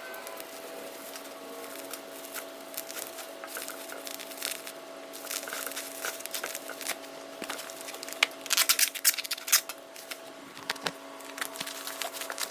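Packing material being handled: rustling and crinkling with scattered taps and knocks, and a quick run of louder sharp clicks and clatter about eight to nine and a half seconds in. A faint steady hum runs underneath.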